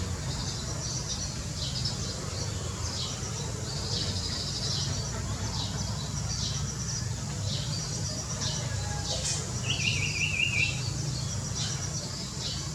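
Small birds chirping over and over in short high notes, with a brief lower warbling trill about ten seconds in. A steady low rumble runs underneath.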